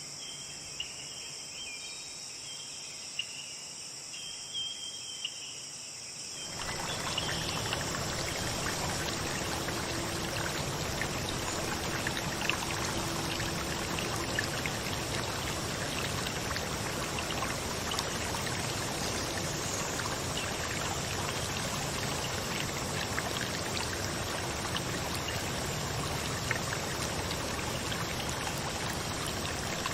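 Insects chirring steadily, then about six seconds in the rush of running water cuts in suddenly and carries on, with the insects still heard above it.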